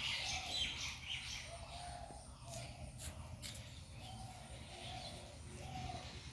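Birds chirping and calling: a run of quick high chirps near the start, then short repeated calls, over a steady low rumble.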